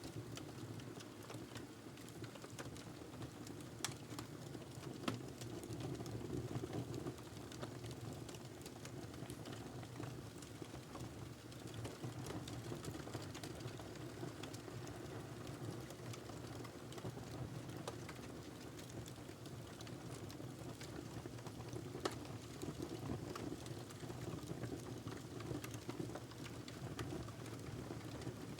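Wood fire burning in a fireplace: a steady low rushing of the flames with scattered sharp crackles and pops from the logs, a few louder snaps standing out.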